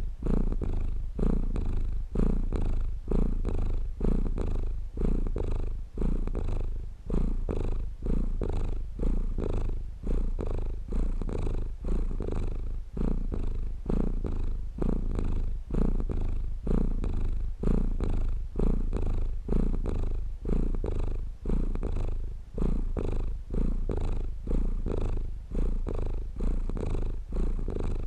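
Domestic cat purring steadily up close, a low rumble that swells and eases in an even rhythm with each breath, about once a second.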